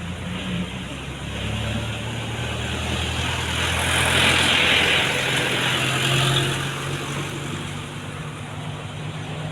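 Truck engines running in slow roadside traffic, a low steady engine note with traffic noise that swells about four to six seconds in as a vehicle passes close.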